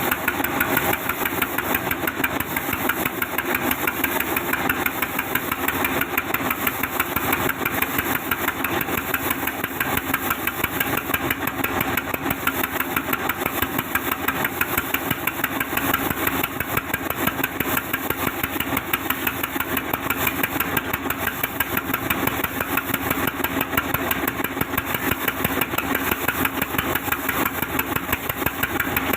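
Wood-cutting saw machine running steadily, a dense machine noise with a fast, even knocking beat and a steady hum that do not change.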